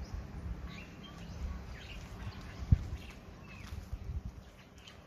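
Birds chirping in short, scattered calls over a low rumble, with one sharp thump near the middle.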